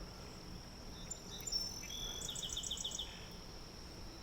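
Birds calling over a steady, high insect drone: a few short chirps about a second in, then a bird's quick run of about six repeated notes.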